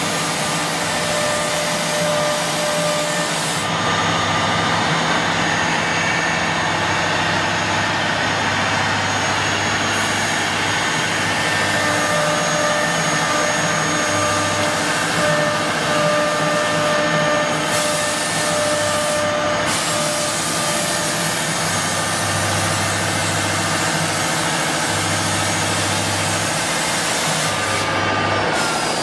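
Two-spindle CNC wood router running and cutting: a steady high-pitched spindle whine over a continuous rushing noise, with a low hum that cuts in and out several times. Near the end a tone begins to slide down in pitch.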